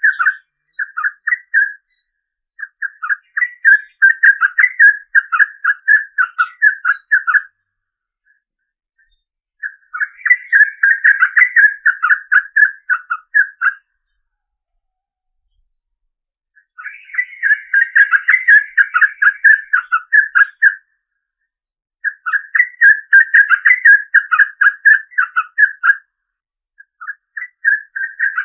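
Sooty-headed bulbul (trucukan) singing in long, rapid chattering phrases. Each run of quick notes lasts about four seconds and is followed by a short pause, repeating five or six times.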